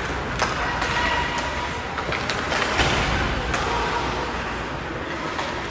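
Ice-hockey game ambience in an arena: a steady wash of rink noise, skates scraping, with several sharp knocks of sticks and puck spread about a second apart.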